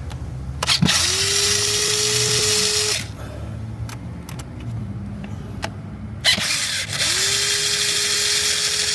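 Power drill spinning up to a steady whine, twice, each run about two seconds, backing out the last two screws of an oil filter housing.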